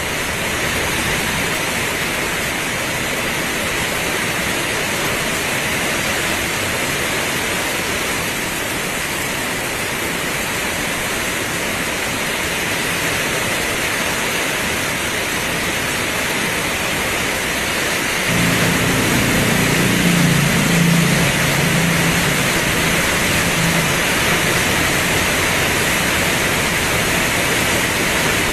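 Heavy rain pouring steadily. About two-thirds of the way through, a low rumble starts suddenly and carries on under the rain.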